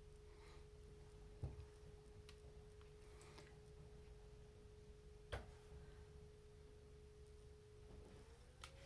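Near silence with a faint steady hum at one pitch that bends upward near the end, and two soft taps about four seconds apart.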